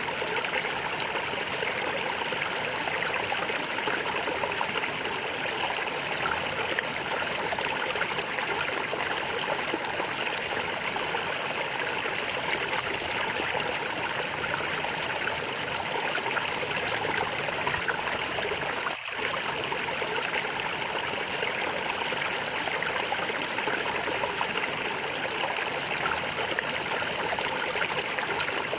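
Water gurgling steadily in a flowing stream, with one momentary dip in level about two-thirds of the way through.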